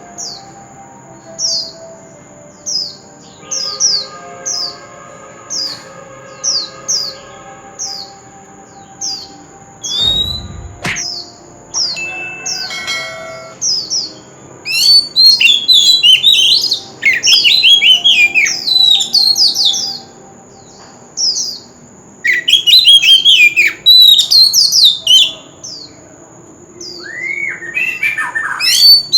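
Oriental magpie-robin singing. It starts with short downslurred whistled notes repeated about once a second, and from about halfway it breaks into loud, rapid, varied song phrases in bursts with brief pauses. A steady high-pitched tone runs underneath, and there is a single low thump about a third of the way in.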